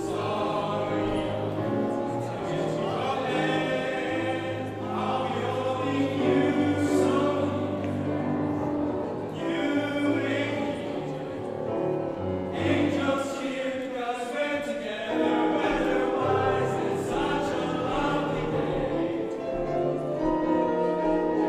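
A choir singing, with several voices holding sustained notes together.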